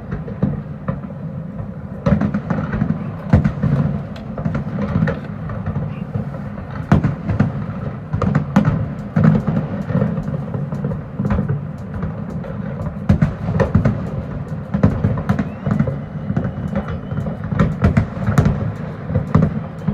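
A fireworks display going off one after another: dozens of sharp bangs and crackles over a steady low background.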